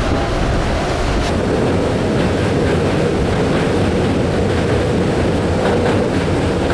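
Steady, loud rumbling noise of a moving vehicle.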